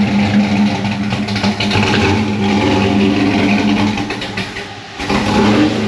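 Vehicle engine idling steadily. The sound fades a little about four and a half seconds in, then comes back abruptly about a second later.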